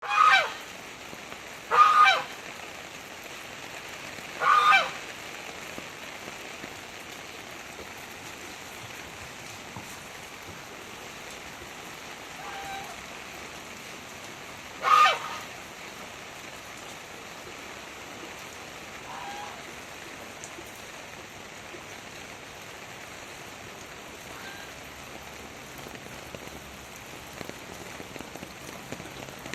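Heavy rain falling steadily. A bird gives loud, short honking calls three times in the first five seconds and once more about fifteen seconds in, with a couple of fainter calls between.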